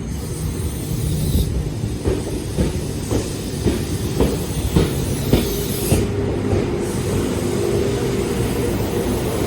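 Train passing on the rails, its wheels clacking over rail joints about twice a second for a few seconds, over a steady low rumble and hum.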